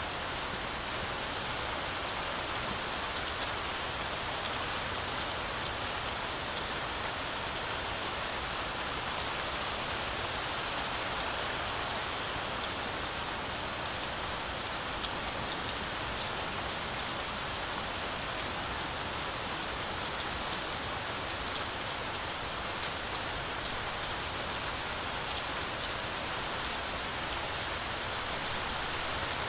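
Heavy, steady rain falling through a forest canopy, a continuous hiss with fine drop patter on leaves and ground.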